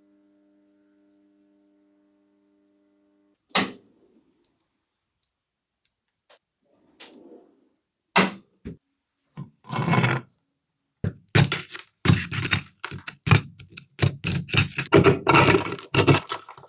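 A single knock, then after a few seconds a quick, irregular run of clinks and knocks from metal parts and tools being handled on a workbench.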